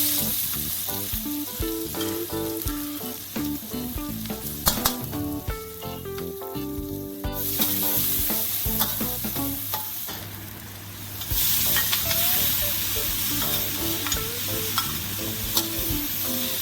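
Seafood and holy basil stir-frying in a hot pan, sizzling loudly, with clicks and scrapes of stirring, over background music. The sizzle drops away for a few seconds in the middle and returns about eleven seconds in.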